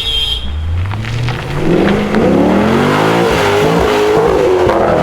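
Holden Commodore's engine revved hard. The revs climb steeply for about a second, then are held high, wavering up and down.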